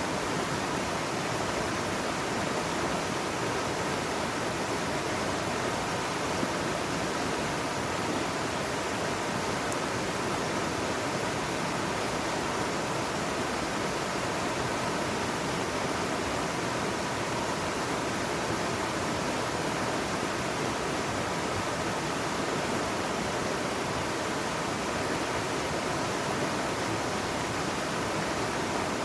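Mountain valley stream rushing, a steady, unbroken wash of water.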